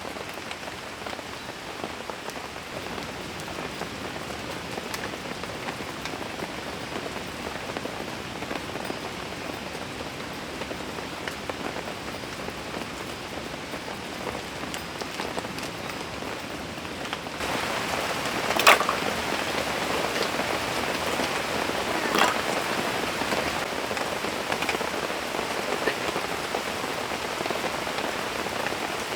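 Steady rain falling; about 17 seconds in it turns louder, and a couple of sharp drop knocks stand out near 19 and 22 seconds.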